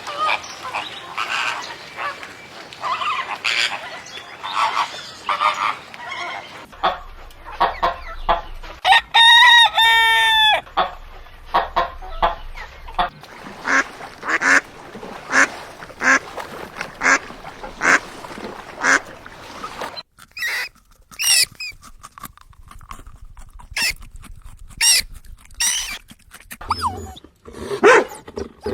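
Farmyard poultry calling in many short clucks and calls, with one long crow from a rooster about nine seconds in. After a sudden break near twenty seconds, a different series of short bird calls follows.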